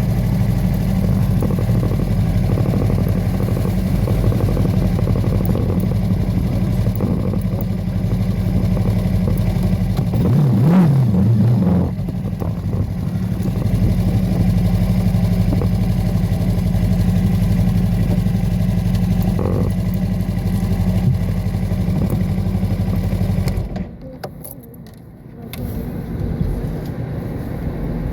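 Motorcycle engine running steadily while riding, with a brief rise and fall in revs partway through. The engine sound drops away sharply for a couple of seconds near the end, then comes back.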